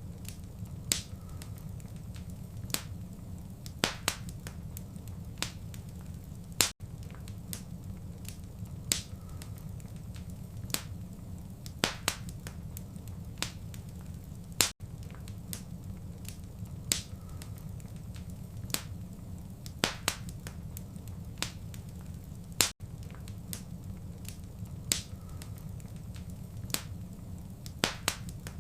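Wood fire crackling: sharp, irregular snaps over a steady low rumble of burning. A brief dropout in the sound comes about every eight seconds.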